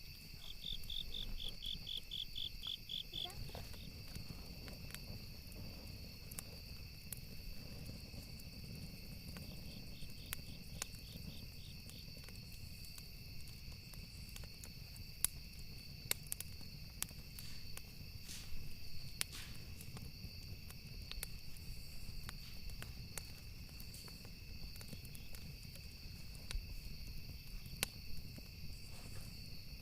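Campfire ambience: wood crackling with sharp pops scattered throughout over a low rumble, under a steady chorus of crickets. A pulsing cricket trill stands out near the start and again faintly about ten seconds in.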